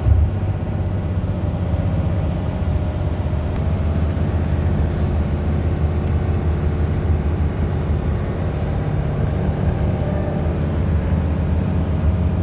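Bus engine and road noise heard from inside the moving bus: a steady low rumble.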